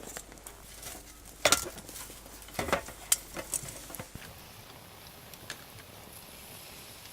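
Metal camp cookware and utensils clinking and knocking a few times, the loudest about a second and a half in, then a steady soft hiss from about four seconds on.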